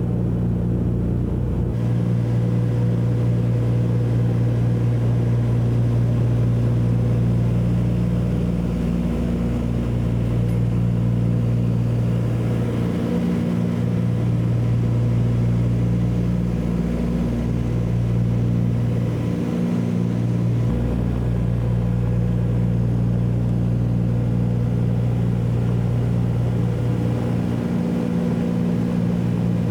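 Steady drone of a Douglas DC-3's two radial piston engines and propellers, heard from inside the cabin in cruise. The low hum swells and dips slowly every six or seven seconds.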